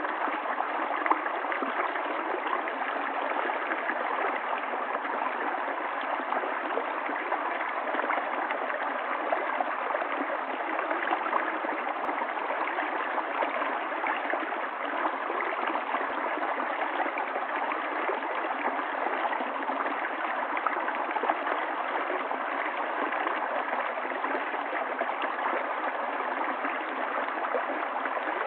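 A stream of running water flowing and gurgling steadily, with no change.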